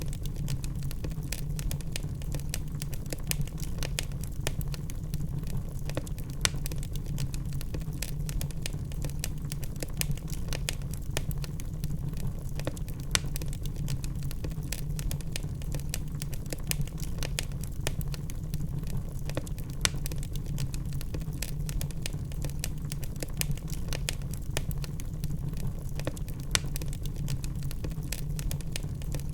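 Wood fire burning in a fireplace: a steady low rumble of the flames with dense, irregular crackles and sharper pops from the burning logs.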